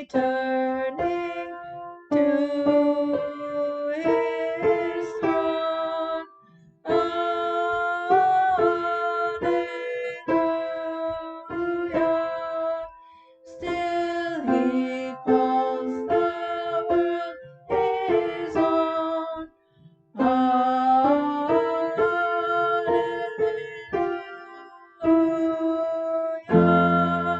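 Hymn music in several parts: chords held phrase by phrase, with short breaks between the lines. A low note joins for the final chord near the end.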